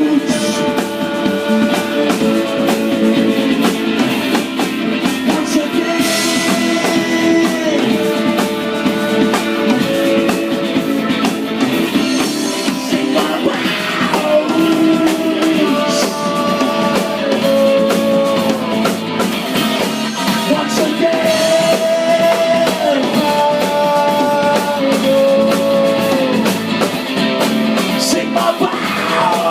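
Live rock band playing: electric guitar and drum kit under a held, sliding melody line.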